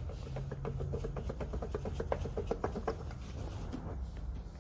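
Rapid, uneven run of light metal clicks and taps as the Renault Master's crankshaft damper pulley is worked off the crankshaft nose, over a low steady hum.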